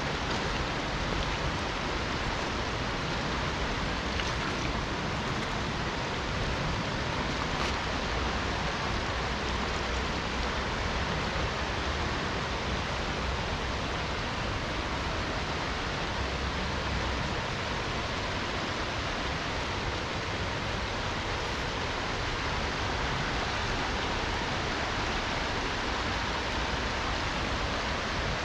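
Steady rushing of a river with falling rain, an even, unbroken water noise.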